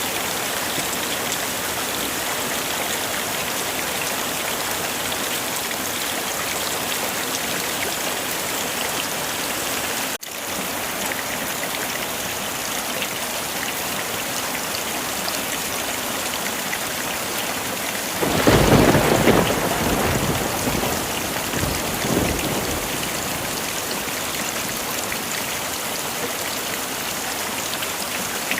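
Heavy rain falling steadily, with a clap of thunder a little past halfway that rumbles on and fades over about five seconds.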